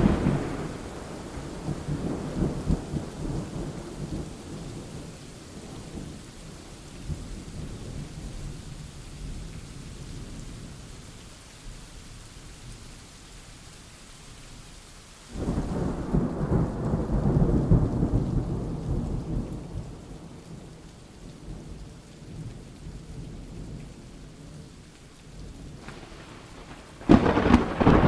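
Thunderstorm: steady rain with rolling thunder. A rumble fades over the first few seconds, a new peal breaks in suddenly about halfway and rolls for several seconds, and another sharp clap comes near the end.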